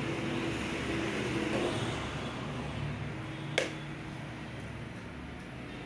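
A single sharp click about three and a half seconds in as the Ahuja DXA-3502 amplifier is switched on, over a steady low hum and hiss.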